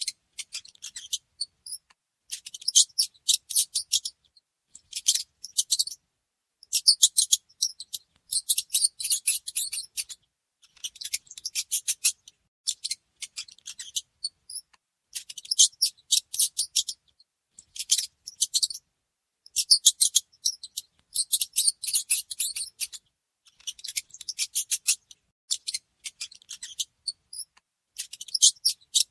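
Mice scratching and rustling in bursts of fast, high clicks, each burst about a second long with short silent gaps between.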